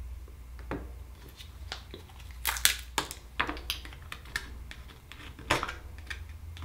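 Akoya oyster shell being handled and pried open with a knife: irregular sharp clicks and scrapes of shell, the loudest cluster about halfway through.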